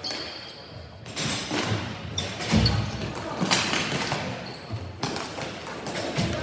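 Ball hockey in play: a string of sharp clacks from sticks and the plastic ball, with a heavier thud about two and a half seconds in.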